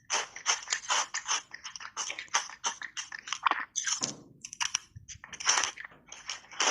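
Mouth biting and chewing small button ice coated in matcha powder, with rapid, loud crunches of ice breaking between the teeth, several a second.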